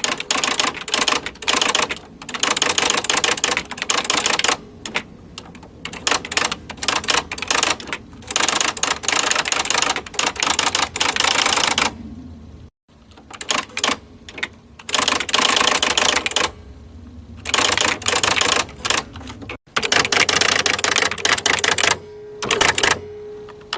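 Typewriter keys clattering in fast runs of sharp strikes, broken by a few short pauses.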